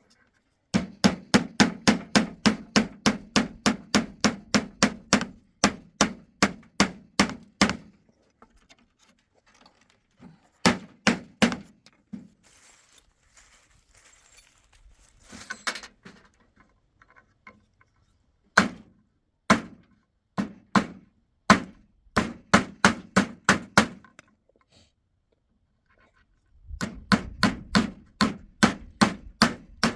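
Hammer striking nails into a wooden door in fast runs of about four blows a second, with pauses and a few single blows between the runs.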